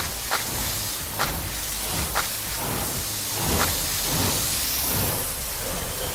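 Steady hissing spray of a car wash, with a few sharp clicks in the first couple of seconds.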